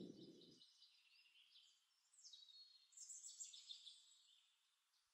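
Near silence with faint, high bird chirps between about two and four seconds in. A low rushing noise cuts off about half a second in.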